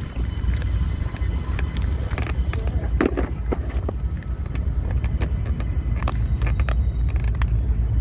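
Passing train: a steady low rumble with irregular sharp clicks and clanks running through it.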